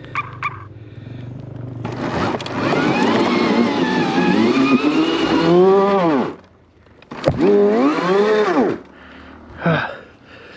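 Arctic Leopard XE Pro electric dirt bike's motor whining under throttle, its pitch rising and then gliding down as the throttle closes. There is one long burst with a rushing noise underneath, then a second shorter one and a brief blip near the end.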